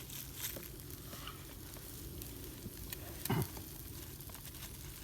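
Thick-cut nakaochi kalbi beef sizzling on a grill, a steady hiss with fine crackles of spitting fat. A brief louder sound comes about three seconds in.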